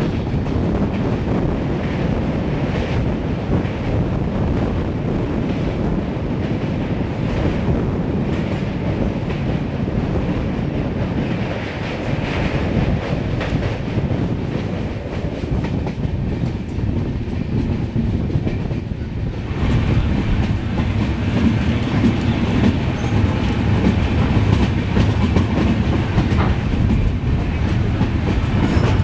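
Running noise of an LHB passenger coach on the move, heard from its doorway: steel wheels clattering over the rails in a steady rumble. The sound turns brighter and a little louder about twenty seconds in.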